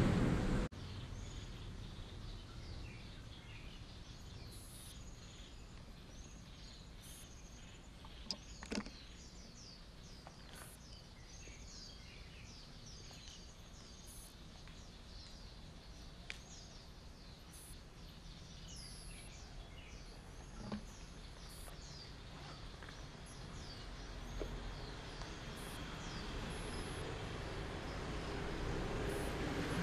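Outdoor ambience in which a loud sound cuts off just under a second in. After that, a bird calls over and over in short, falling chirps through the first two-thirds, with a few sharp clicks, and low background noise swells near the end.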